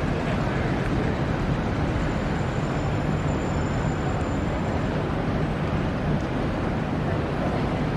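Steady city background noise, a low, even rumble like passing traffic, with no distinct events.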